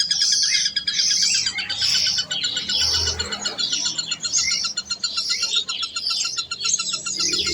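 Birds chirping, several calling over one another, with a fast, steady trill underneath.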